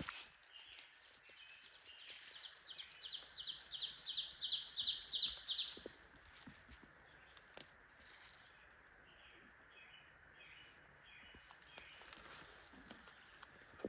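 A songbird singing a fast, high trill of repeated notes that grows louder for about four seconds and then stops, followed by a few faint, scattered chirps.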